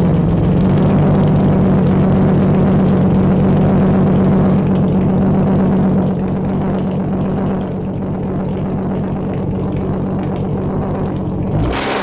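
BMW E36 325i's 2.5-litre M50B25 straight-six (non-VANOS) running steadily at idle after a cold start, through headers and an unrestricted exhaust. It drops a little in loudness about halfway through, and a brief sharp noise comes just before the end.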